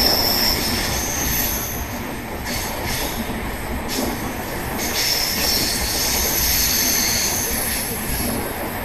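Sinhagad Express passenger coaches running on the rails, with a steady rumble of the wheels. A high-pitched wheel squeal comes and goes: near the start, again about a second in, and for a longer stretch from about five seconds in.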